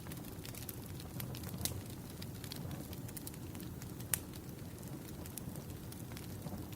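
Wood fire crackling: irregular sharp pops and snaps over a steady low rumble of the flames, with one louder pop about four seconds in.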